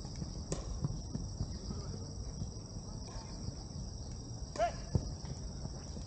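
Steady, high-pitched chorus of insects, with a few dull thumps and a short distant shout about four and a half seconds in.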